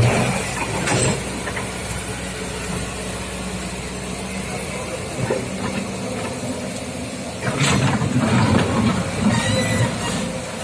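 Kobelco SK200-8 excavator's diesel engine running steadily, with louder, rougher stretches around a second in and for about two seconds after the middle as the machine works.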